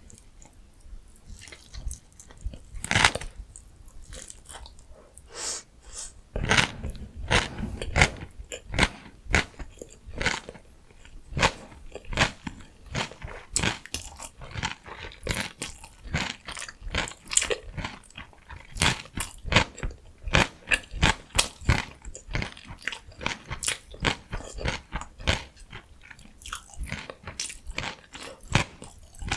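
Close-miked chewing of crunchy vegetable food: a steady run of sharp crunches, two or three a second, with a loud crunch about three seconds in.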